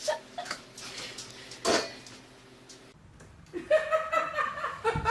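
A few knocks and clicks, one louder about 1.7 s in, then a person laughing from a little before the end.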